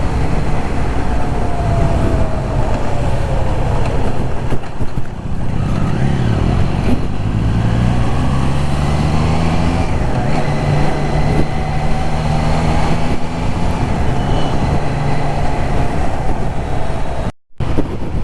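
Motorcycle ride with steady wind and road rush over the engine. The Triumph Trident 660's three-cylinder engine note climbs in steps as it pulls through the gears, then holds a steady cruise. The sound drops out briefly near the end.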